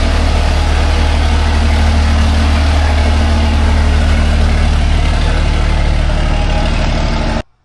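Pickup truck engine running at a steady speed, a deep even hum that neither rises nor falls, then cut off abruptly near the end.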